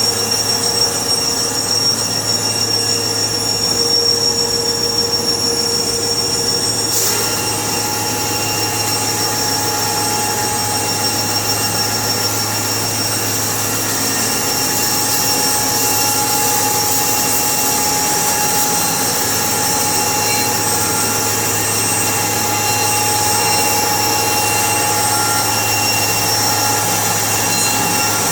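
Sawmill machinery running steadily, a loud hum with a high whine over it. About seven seconds in the hiss grows brighter and louder, as if cutting begins or the machine speeds up, and it then runs on evenly.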